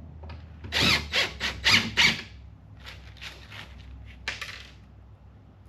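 Screws being driven through a metal corner bracket into the plywood cabinet box, giving a run of short, sharp squeaks and scrapes about a second in, with a few more near three and four seconds.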